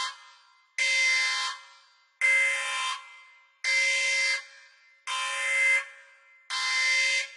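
Alarm horn sounding in a repeating pattern: five buzzing blasts of about three-quarters of a second each, one roughly every second and a half, each cutting off into a short fading echo.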